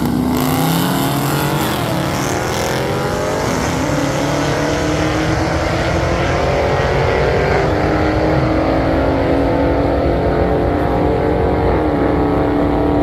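Dodge Chargers drag racing at full throttle. The engine pitch climbs and drops back at each upshift, several times over the run.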